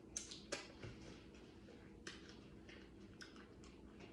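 Faint, scattered clicks and smacks of someone eating and handling food, a few sharp ticks over a low steady hum.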